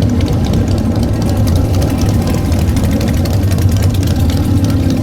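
Motorcycle engine idling with a steady, deep, loud rumble.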